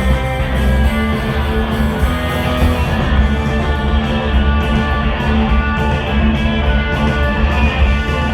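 Instrumental band music led by guitar over a strong bass line, with no singing.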